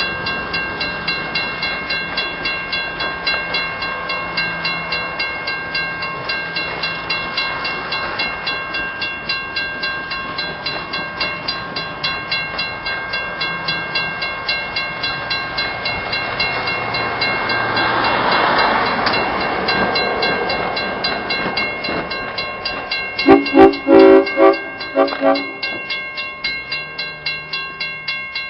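Locomotive bell ringing steadily, about two to three strokes a second. A rushing swell builds and fades in the middle as the train moves past. About two-thirds of the way through, several short loud horn blasts sound over the bell.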